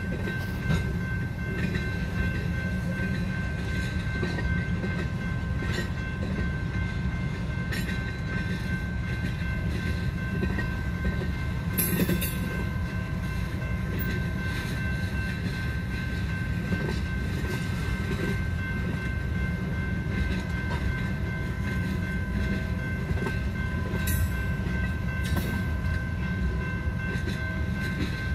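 A freight train's cars rolling past close by: a steady low rumble of steel wheels on rail, with a few sharp clanks along the way and a faint steady high tone above it.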